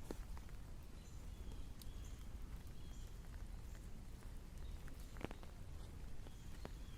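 Raindrops tapping now and then, over a low steady rumble, with short faint high chirps every second or so.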